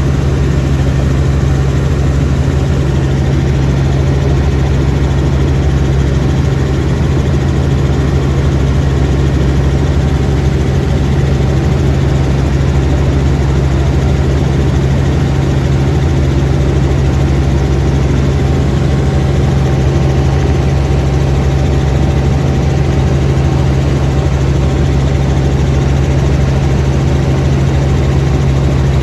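Helicopter in flight: the engine and rotor make a steady, loud drone with a strong low hum that does not change.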